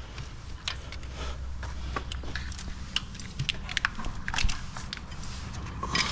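Hand tools clicking and tapping irregularly on the Caterpillar C11's valve train as the exhaust valve adjusting screws and lock nuts are worked with a socket and Allen wrench, over a steady low hum.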